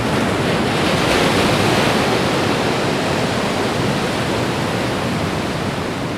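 Ocean waves breaking and washing on the shore: a loud rush of surf that swells about a second in, then slowly eases off.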